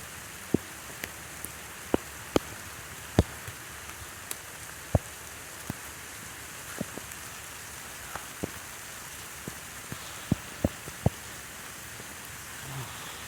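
Steady rain hissing, with single heavy drops tapping sharply close to the microphone at irregular intervals.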